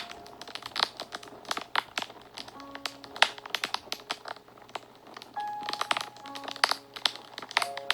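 Wood fire crackling, with many irregular sharp snaps and pops, over soft background music of a few sustained notes.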